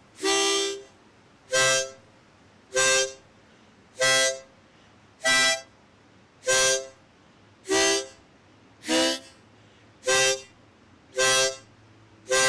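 C diatonic harmonica blown in short, even puffs, about ten chords roughly one every 1.2 seconds: exhaled blow chords played anywhere on the harp, the simple beginner rhythm exercise.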